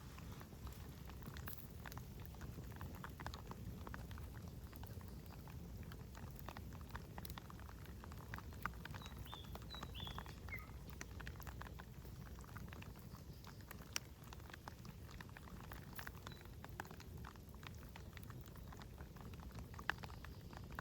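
Campfire crackling, with many scattered sharp pops over a low steady rumble. About nine to ten seconds in, a bird gives a few short high chirps.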